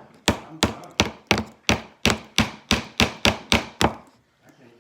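A hammer driving a nail into wood with rapid, even strikes, about three a second, stopping about four seconds in.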